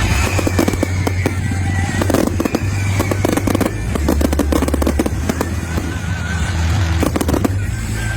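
Fireworks show with dense, rapid crackling and popping of bursting shells, over background music with a steady bass.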